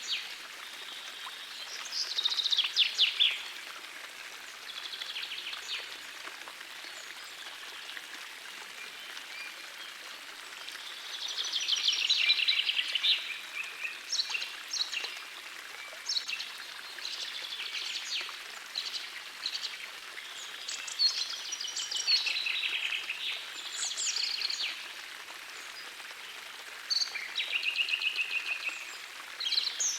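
Songbirds singing in short, trilled phrases every few seconds over the steady rush of a gentle forest stream. The loudest bursts of song come about two seconds in, around the middle, and again near the end.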